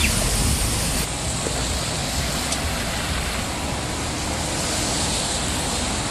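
Steady rushing hiss of outdoor ambient noise, even and without distinct events, strongest in the high end.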